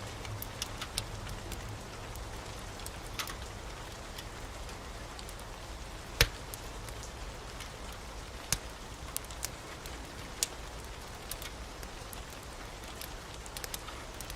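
Steady heavy rain, with a wood fire crackling over it in scattered sharp pops, the loudest about six seconds in.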